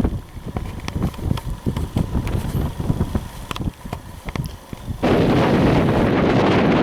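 Strong wind buffeting the microphone: gusty low rumble broken by many sharp pops and crackles. About five seconds in, a much louder, steady rush of wind noise starts suddenly.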